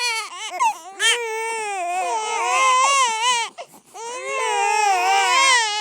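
Infant crying in long, high, wavering wails, with a short catch for breath about three and a half seconds in.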